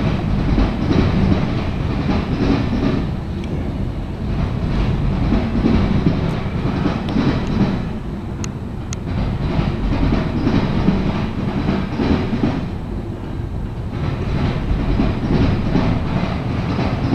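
Freight train cars rolling past: boxcars and autorack cars clattering steadily over the rails, a continuous low rumble with a stream of wheel clicks over the rail joints.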